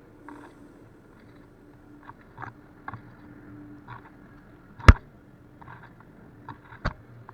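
Kayak paddling: soft splashes and drips from the paddle blades at a steady stroke, with two sharp knocks, about five and seven seconds in, the first the loudest.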